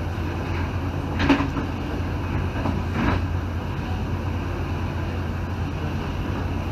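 Steady low rumble of a 1980s heritage passenger train heard from aboard, with two short knocks, about a second in and about three seconds in.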